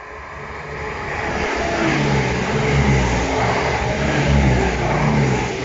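Diesel multiple unit passenger train passing close by at speed: the low note of its underfloor diesel engines and the rush of wheels on rails swell as it comes alongside, then begin to ease near the end.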